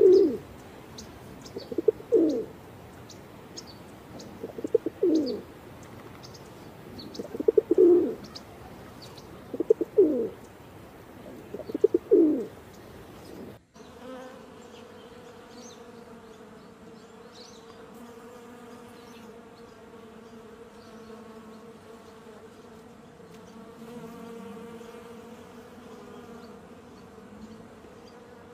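Pigeon cooing six times, roughly every two seconds, with small birds chirping faintly over it. About halfway through it cuts off abruptly to the steady buzzing drone of a flying insect.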